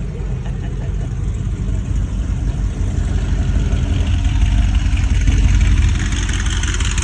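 A motor vehicle engine running at low revs, a steady low rumble that swells about two-thirds of the way through and then eases.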